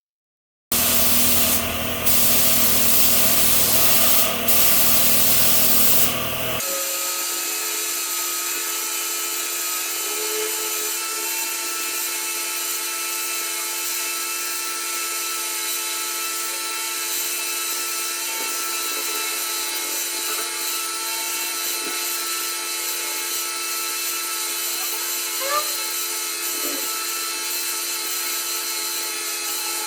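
A power tool working on a workpiece: a loud, harsh grinding or sanding noise with brief breaks for about six seconds, then a quieter, steady whirring hum for the rest.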